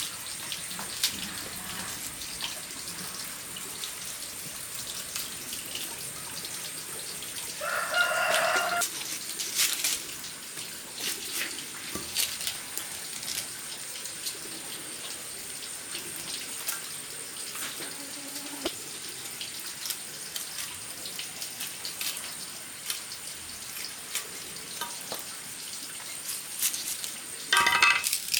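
A rooster crows twice, once about a quarter of the way in and again just at the end. Under it runs a steady wash of running tap water with scattered clicks and knocks.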